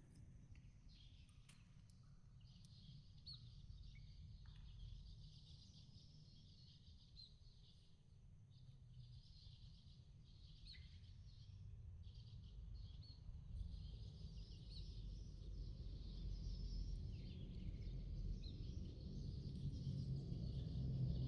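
Faint outdoor ambience: small birds chirping in a broken, high-pitched chorus over a low rumble that grows louder near the end.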